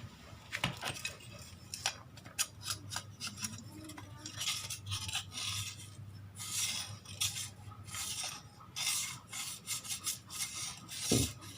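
Irregular rasping, scraping strokes mixed with sharp clicks: hand work on the metal parts of a car power-window motor that was submerged in water.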